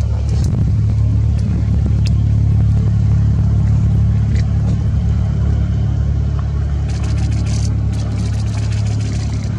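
Motorboat engine running steadily with a deep, low hum. Bursts of rapid camera-shutter clicks come in about seven seconds in.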